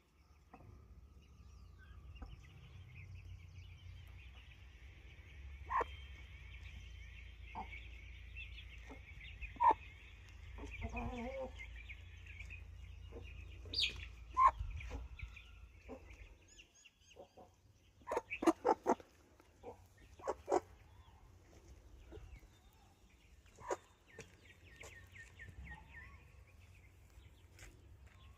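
Aseel chickens clucking, with short sharp calls scattered through and a quick cluster of them about two-thirds of the way in. A steady high background sound and a low rumble run under the first half.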